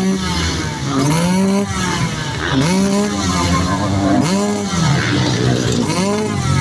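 Motocross bikes' engines on the track revving up and dropping back again and again, about five rising-and-falling swells in pitch, with a harsh raspy edge.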